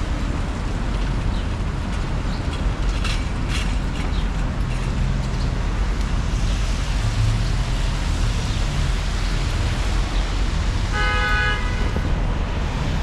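City street traffic on wet roads: a steady hiss of tyres and engines, with a car horn sounding once briefly near the end.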